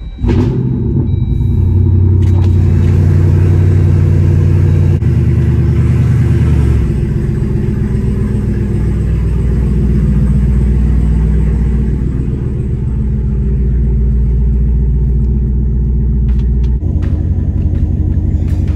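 A Jeep Wrangler Rubicon 392's 6.4-litre HEMI V8, on a straight-piped exhaust, starts up suddenly and settles into a loud, steady idle, heard from inside the cab.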